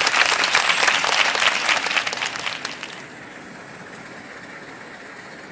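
Busy outdoor background noise with dense rustling and clicking, fading about three seconds in, over a faint high wavering whine.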